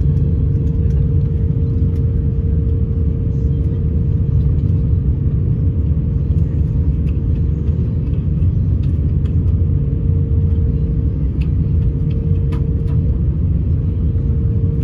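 Airbus A350 cabin noise: the steady, loud rumble of its Rolls-Royce Trent XWB engines and the airflow, heard from inside the passenger cabin, with a constant hum held at one pitch above it.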